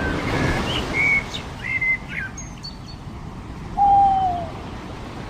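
Birds calling over the wash of surf: a quick run of short chirps and whistled notes in the first two seconds or so, then one longer, lower note that falls in pitch about four seconds in, the loudest call.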